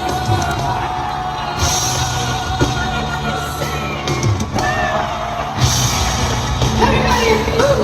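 Live rock music with singing and long held notes over a steady bass rhythm, with yells and whoops from the crowd.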